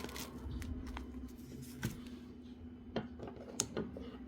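A few sharp clicks of utensils against dishes during a meal, spaced about a second apart, over a steady low hum.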